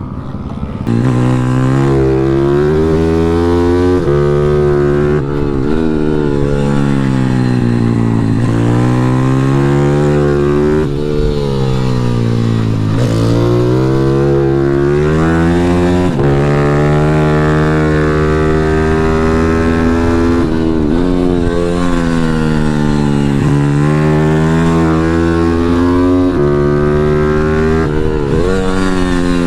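Pit bike engine at racing pace around a track, the revs climbing and then dropping sharply every few seconds as it accelerates, shifts and slows for corners.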